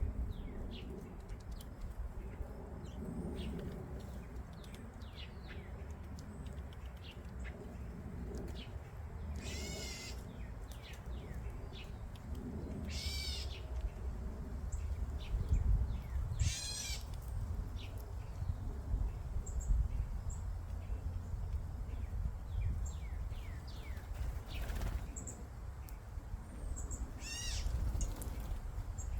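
Wild songbirds chirping and calling, with four louder calls of rapid repeated notes among many faint high chirps, over a steady low background rumble.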